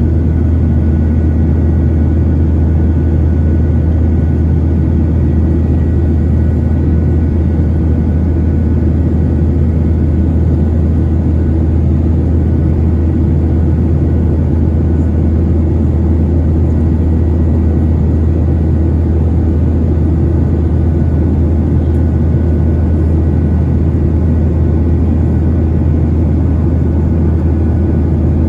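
Cabin noise inside a Boeing 737-900ER: a loud, steady drone of its CFM56-7B engines and airflow, deepest in the low range, with a faint steady whine above it.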